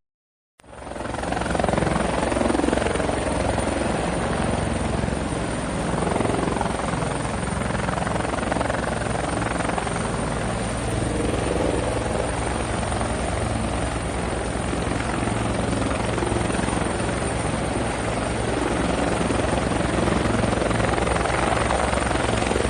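Helicopter running steadily, a continuous rotor and engine noise with a fast low chop, cutting in after a split second of silence.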